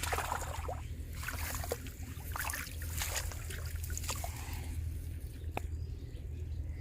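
Shallow water sloshing and splashing irregularly as someone wades and works a bamboo polo fish trap in it, with a steady low hum underneath.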